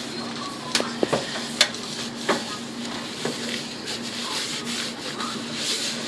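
Dry paper towel rubbing and wiping over the inside walls of a microwave, with a few light knocks in the first couple of seconds. A faint steady low hum runs underneath.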